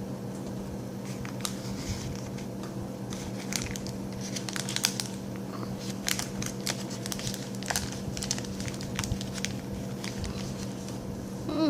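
Plastic chocolate-bar wrapper crinkling and rustling in the hands, a run of irregular sharp crackles, over a steady low electrical hum.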